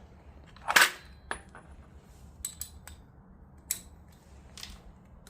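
Metal hand tools clinking and clattering, as when sockets and extensions are handled in a toolbox: one loud clank about a second in, then several lighter clicks and taps.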